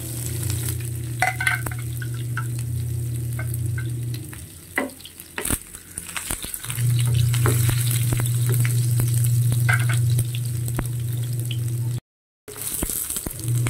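Sliced garlic and red onion sizzling as they fry in hot oil, with clicks and scrapes of a utensil against the pan as they are stirred. A steady low hum runs underneath and drops out for a couple of seconds around five seconds in.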